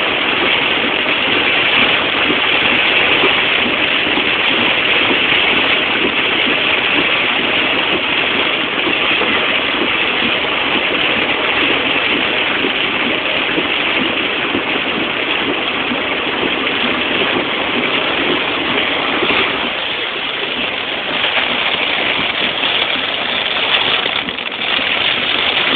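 Heavy thunderstorm downpour: a steady, dense rushing hiss of pouring rain, unbroken and loud.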